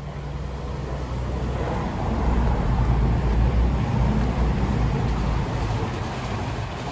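Diesel multiple unit train, a CrossCountry Voyager, passing close by with its underfloor engines running. It grows louder to a peak about halfway through, then fades as it moves away.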